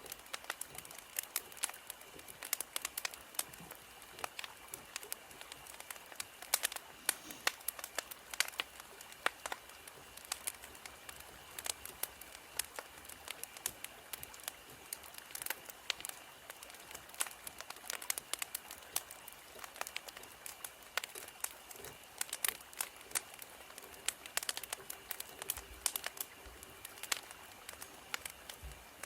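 Wood fire crackling: irregular pops and snaps over a steady hiss.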